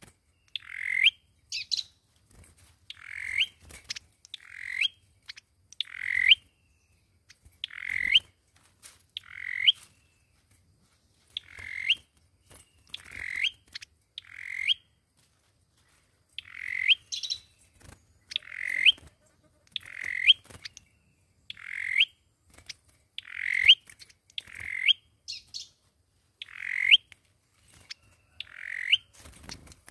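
A sâu dừa bird calling over and over: short harsh notes, each ending in a sharp upward sweep. They come roughly every second or so, often in pairs, with a couple of brief pauses.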